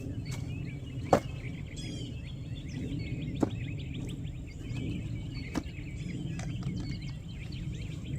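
Honey bee swarm humming steadily, with birds chirping over it and three sharp knocks, the loudest about a second in.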